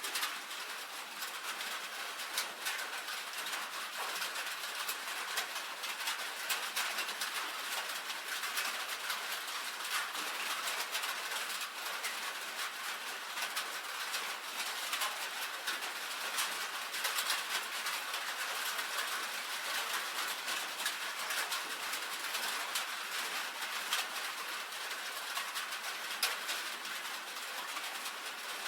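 Rain falling steadily on a tin roof: a dense, even patter of many small, sharp drop ticks on metal sheeting, with no let-up.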